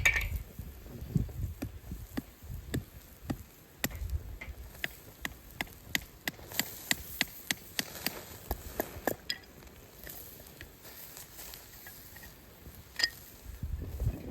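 Firewood being chopped with a hatchet: a run of sharp wooden strikes, about two or three a second, that thins out after about nine seconds, with one louder crack near the end.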